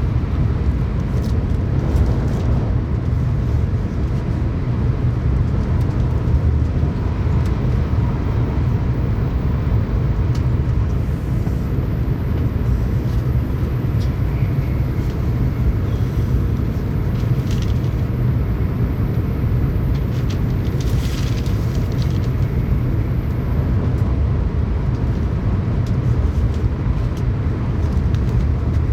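Tokaido Shinkansen train running at speed, heard inside the passenger cabin: a steady low rumble, with a few faint clicks around the middle.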